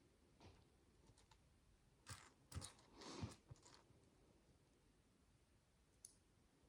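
Faint clicks and small rustles of tiny plastic micro bricks being handled and pressed together. The clicks are scattered, with a cluster in the middle and a single one near the end.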